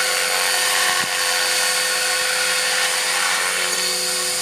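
Electric radio-controlled model helicopter running close by at a steady speed: an even, high motor-and-rotor whine with no change in pitch.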